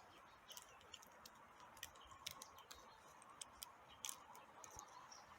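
Near silence broken by faint, irregular high clicks and ticks, one or two a second.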